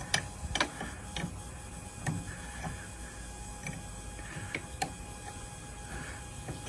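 Irregular light clicks and taps of a wrench snugging down the fittings on a hydraulic steering system, over the faint steady hum of a Power Purge Jr. bleeder pump still running.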